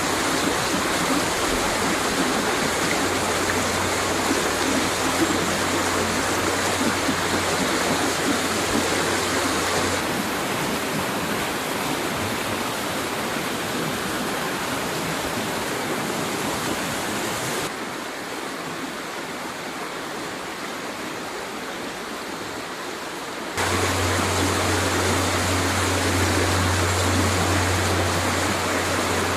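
A mountain river rushing over rocks in a steady, full rush of water. The sound changes suddenly three times, about 10, 18 and 24 seconds in; it is quieter between about 18 and 24 seconds and fuller again after.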